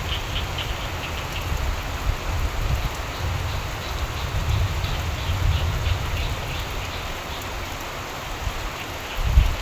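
Steady rain falling, with frogs calling in short repeated notes now and then over a low rumble that swells and fades. There is a short, louder low thump near the end.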